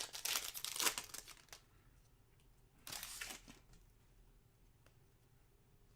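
Plastic wrapper of a trading card pack crinkling and tearing as the pack is opened, in two bursts: a longer one lasting about a second and a half at the start and a shorter one around three seconds in.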